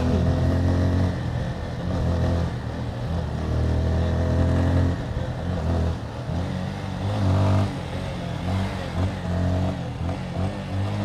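Motorcycle engine running under way, its pitch rising and falling as the throttle opens and closes, with a steady rushing noise underneath.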